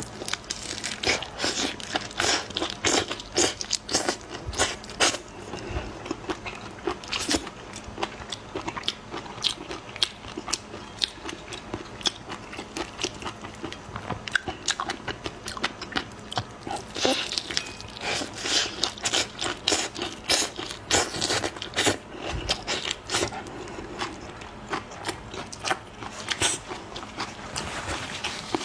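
Close-miked biting, crunching and chewing of crisp food: a dense, irregular run of sharp crunches, with a few louder clusters around the middle and near the end.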